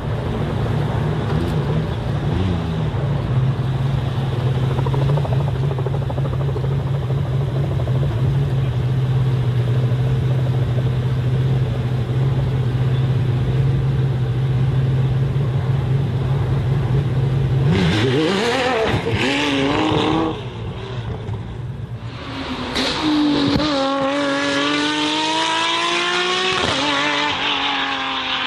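Delage D12 hypercar's V12 engine running at a steady low note for most of the time. Past the middle it revs up and back down once, then accelerates with a long rising pitch that drops sharply near the end as it shifts up.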